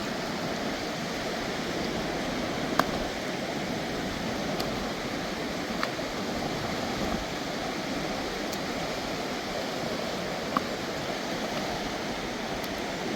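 Mountain river water rushing steadily, with two sharp clicks, about three seconds in and near the end.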